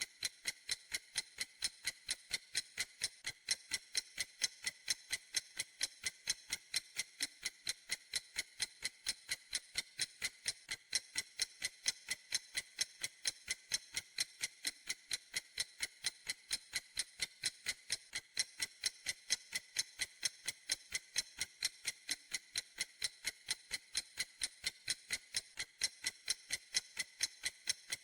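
Clock ticking in an even, quick rhythm of crisp, high clicks, a few every second.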